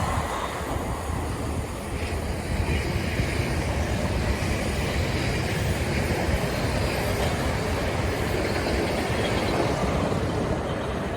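A train running past on the track, a steady rumble of wheels and carriages that eases off a little near the end.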